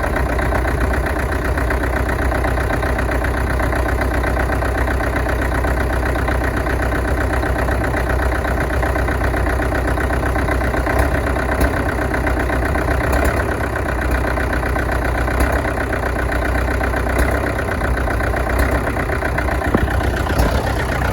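International BTD6 crawler dozer's diesel engine idling steadily with an even, fast pulse, shortly after a cold start.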